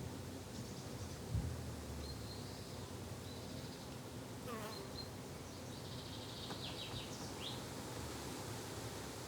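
Steady buzzing of flying insects in a summer garden, with a few short high bird chirps scattered through and a single soft low thump about a second and a half in.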